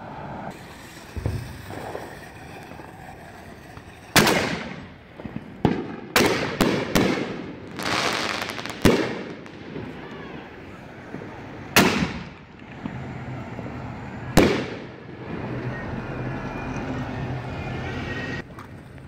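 Fireworks exploding: a string of sharp bangs, several in quick succession between about six and nine seconds in, then two more a few seconds apart, each echoing briefly.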